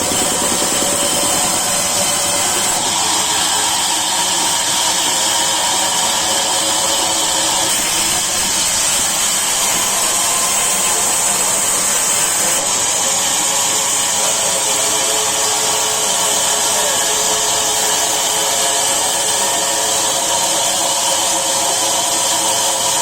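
Sawmill saw running steadily through timber, a constant loud machine whine with a high hiss that does not let up.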